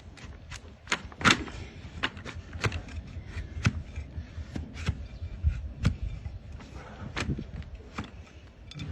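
Hoof-trimming tools cutting a donkey's hoof horn: a series of irregular sharp cracks and clicks, about one a second, with the loudest a little over a second in.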